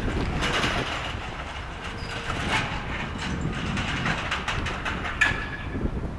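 Chichibu Railway train running on the line: a low rumble with many irregular sharp clicks and clatter, the sharpest about five seconds in.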